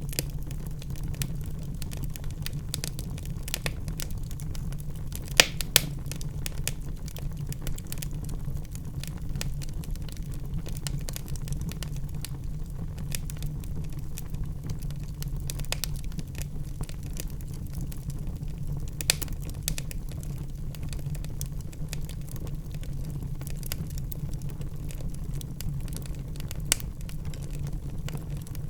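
Wood fire crackling in a fireplace: a steady low rush of flames with constant small crackles and a few louder pops, two close together about five seconds in, one near the middle and one near the end.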